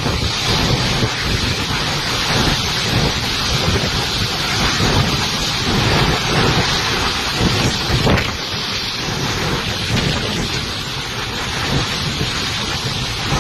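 Heavy typhoon rain pouring steadily while strong wind gusts, with a constant low uneven rumble of wind buffeting the microphone.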